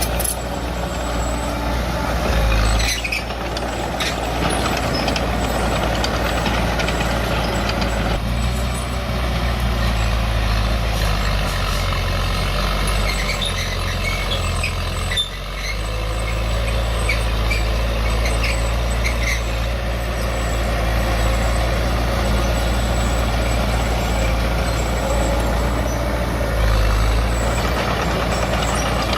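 Diesel engine of heavy earthmoving machinery running steadily under work, with a brief drop in level about halfway through.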